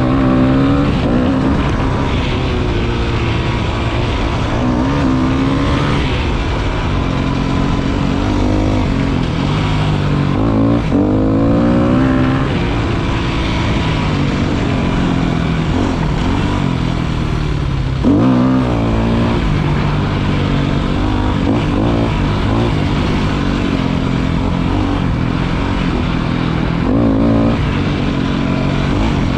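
Motorcycle engine running under way, its revs climbing and falling back again and again as it accelerates and shifts.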